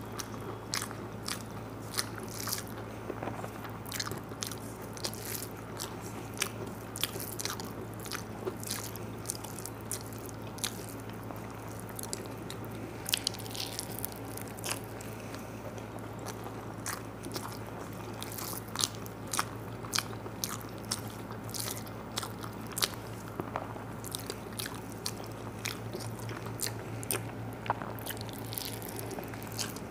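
Close-miked eating: chewing and crunching with many sharp, irregular mouth clicks, over a steady low hum.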